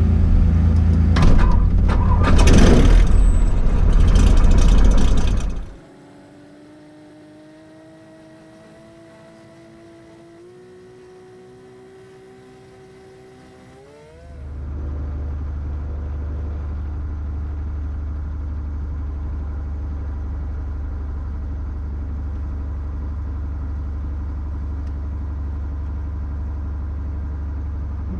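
Cessna 170B's Continental six-cylinder engine just started and running loud for about five seconds. The sound then drops away to a faint rising whine, and about fourteen seconds in a steady low engine drone comes in and holds.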